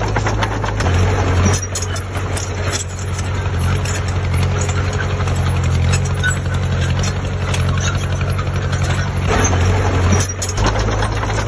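Heavy construction machine's diesel engine running steadily, with rapid metallic clicking and rattling over the low drone. The engine note shifts briefly about a second and a half in and again near the end.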